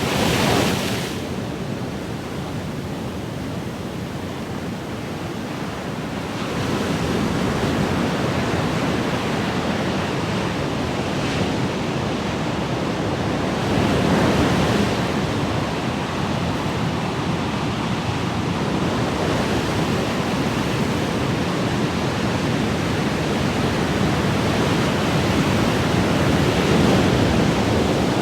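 Ocean waves breaking and washing on a shore: a continuous rush of surf that swells as each wave comes in, with several bigger surges through the stretch.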